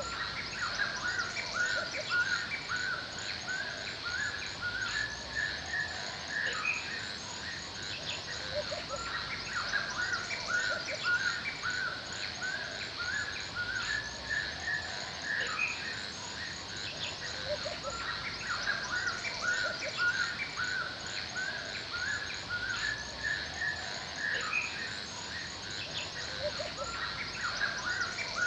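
Forest ambience: birds chirping repeatedly over a steady chorus of insects with a high, fast-pulsing trill.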